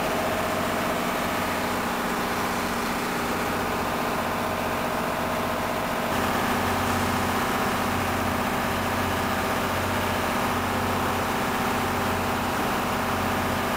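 Steady idling drone of a passenger train standing at the platform, with a low hum that pulses about once a second in the second half.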